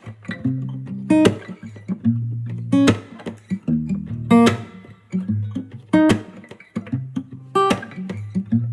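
Song played on strummed acoustic guitar with a bass line, a sharp strum accent falling about every one and a half seconds; an instrumental stretch between sung lines.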